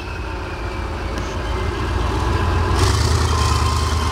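K1 main battle tank's diesel engine running under load while fording a river, a steady low drone that grows louder about three seconds in, joined by a rushing hiss.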